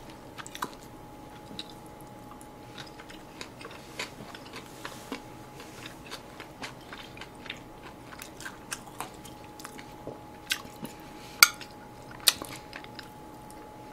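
Close-miked chewing and biting of Korean side dishes, with small crunches and soft clicks throughout. A few sharper clicks near the end, metal chopsticks tapping the plate.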